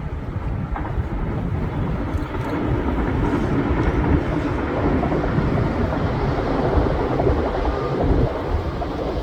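A train running past, its noise building to a peak a few seconds in and easing near the end, with wind buffeting the microphone.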